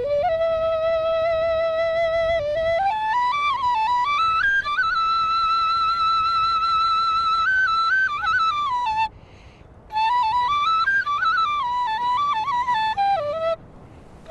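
Solo flute playing a slow melody. It holds a long note, climbs step by step to a long high note and comes back down, breaks off for about a second just past halfway, then plays another phrase that rises and falls.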